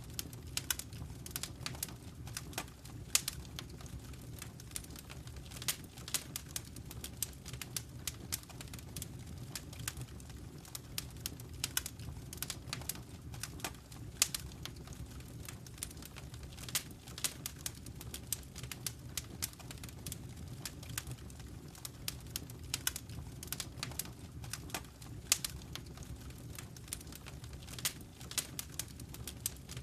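Wood fire burning in a fireplace: a steady low rumble with frequent irregular crackles and snaps, a few of them sharper and louder than the rest.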